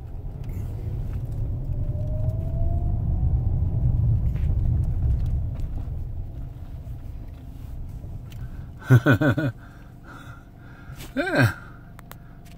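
A car reversing: a low engine rumble swells over the first few seconds with a faint rising whine, then dies away as the car slows and stops. Near the end a man's voice makes two short sounds.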